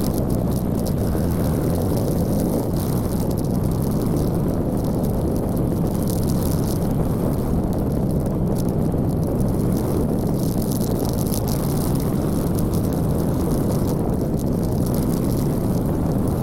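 Steady rushing noise of a motorcycle on the move: wind buffeting the microphone over the drone of the engine and road, at a constant level.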